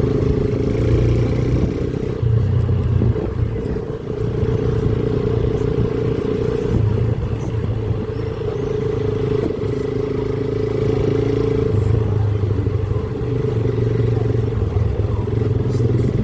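Motorcycle engine running under way, its pitch and level shifting up and down several times with the throttle.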